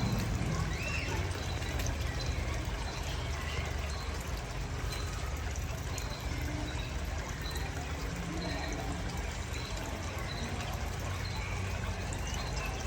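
Running water trickling steadily, with faint high chirps repeating every second or so.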